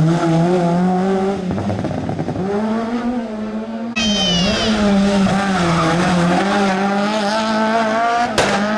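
Rally cars' engines running hard on a special stage, the note rising and falling with throttle and gear changes. About four seconds in, one car's sound gives way abruptly to another's, and a sharp crack comes near the end.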